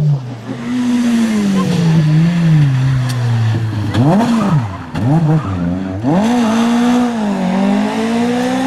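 Opel Kadett C Coupe rally car's engine revving under hard driving. Its pitch falls over the first few seconds, rises and drops sharply several times around four to six seconds in with throttle blips and gear changes, then holds high as it pulls away.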